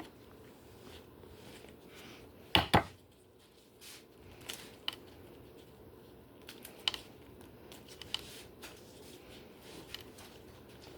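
Kitchen handling sounds: a sharp double knock about two and a half seconds in, then scattered light clicks and taps of dishes and utensils.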